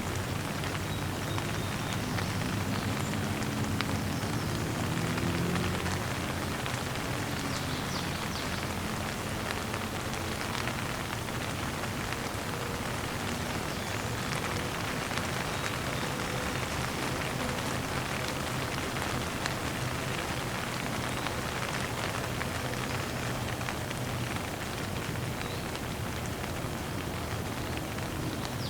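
Steady rain shower falling, an even patter of many drops. A faint low wavering hum rises under it in the first few seconds and fades by about six seconds in.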